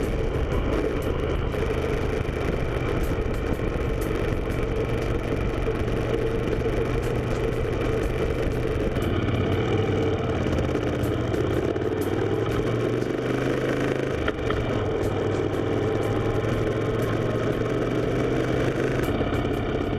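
Moto Guzzi Griso V-twin engine running steadily while riding, mixed with wind and road noise. The engine note shifts slightly about halfway through and again a few seconds later.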